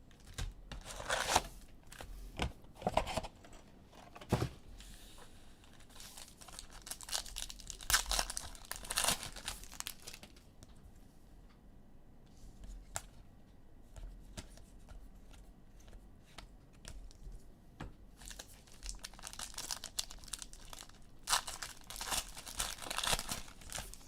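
Trading-card pack wrappers being torn open and crinkled in bursts of rustling, strongest in the first ten seconds and again near the end, with a quieter stretch between holding only a few faint clicks.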